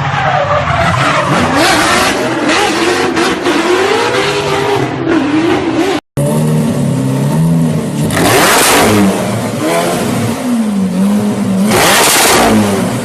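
Zenvo supercar's V8 being revved hard over and over, its exhaust note rising and falling, with a brief cut-out about halfway. In the second half come two loud blasts, typical of the exhaust spitting flames on the rev.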